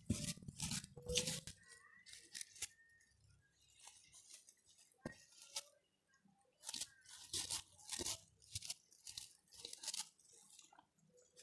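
Stone pestle crushing and grinding sliced shallots and chilies in a stone mortar (cobek and ulekan): a run of short, irregular, gritty crunching strokes that grows sparse midway and then picks up again. The shallots are being ground only coarsely.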